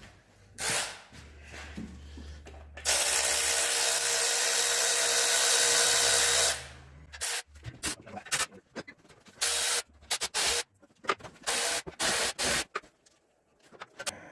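Cordless power tool spinning bolts out: one long run of about four seconds, then a string of short bursts in the second half.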